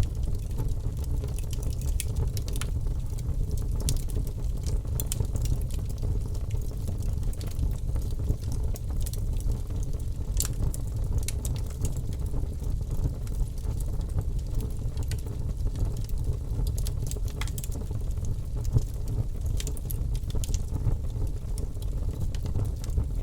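Logs burning in a fireplace: irregular sharp crackles and pops over a steady low rumble of the fire.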